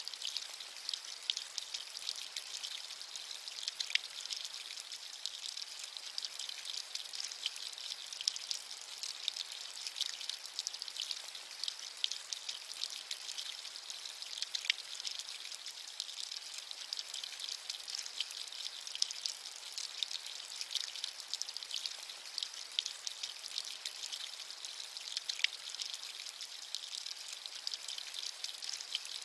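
Steady rain falling, a continuous high hiss dotted with the patter of many individual drops.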